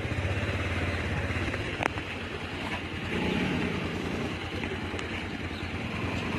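Motorcycle engine running steadily while riding, with road noise. There is a single sharp click about two seconds in.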